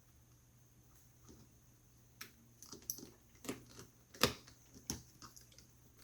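Scattered small clicks and taps from handling a laptop's parts and screws during reassembly, starting about two seconds in, the loudest one a little after four seconds.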